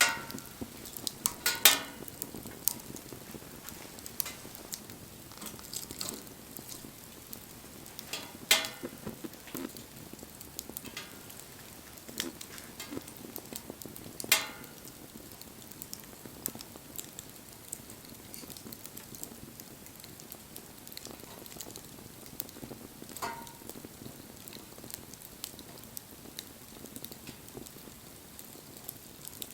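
Wood fire crackling steadily with many small snaps and a few sharp, loud pops, the loudest about 2, 8 and 14 seconds in.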